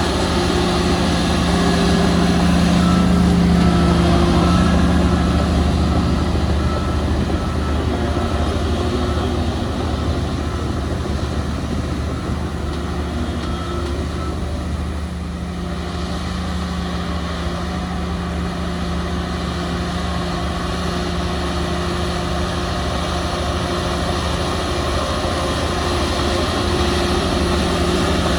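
Large diesel engines of heavy earthmoving machinery running under load, a steady low drone that swells and eases. A faint beep repeats about once a second through the first half.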